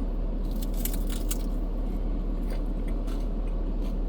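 A person biting into and chewing a crispy egg roll, with a run of crunches about a second in and a few more later.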